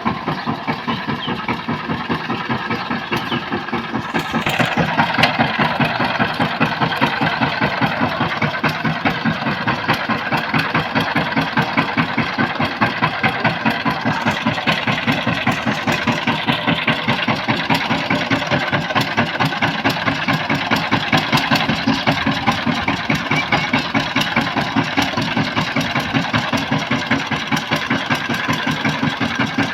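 A power tiller's single-cylinder diesel engine running with an even firing beat, growing louder about four seconds in.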